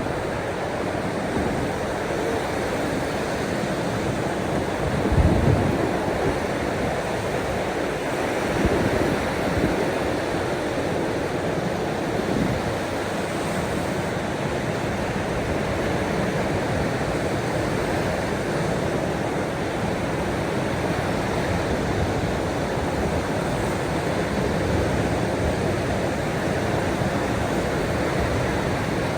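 Ocean surf: a steady rush of waves, swelling a little about 5 seconds in and again about 9 seconds in.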